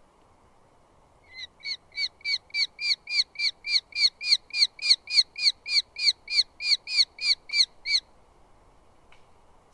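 Eurasian hobby calling a long, even series of sharp kew-kew-kew notes, about three and a half a second, louder over the first few notes, stopping abruptly about eight seconds in.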